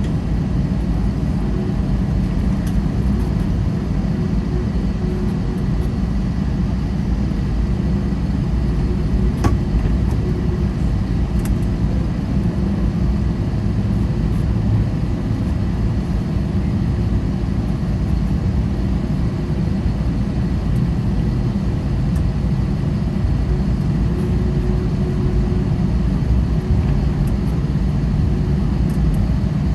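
Airbus A320-200 cabin noise: a steady low rumble from the engines and airframe, with a couple of faint clicks about ten seconds in.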